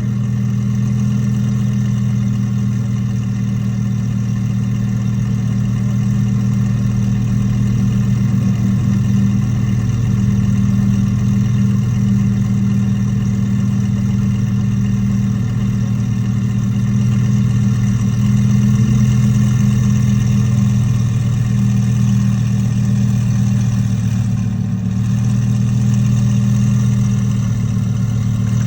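Twin-turbocharged V10 of an Audi R8 idling steadily after a cold start, with a slight dip in the idle about 24 seconds in.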